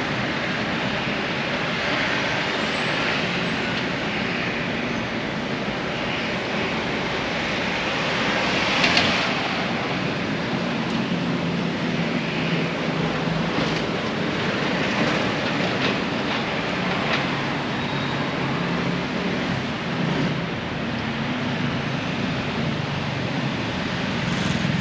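City street traffic noise: a steady rumble of passing vehicles, with one vehicle passing louder about nine seconds in.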